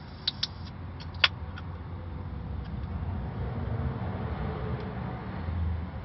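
A motor vehicle running as a low steady rumble that grows louder around the middle and again near the end, with three or four sharp clicks in the first second and a half.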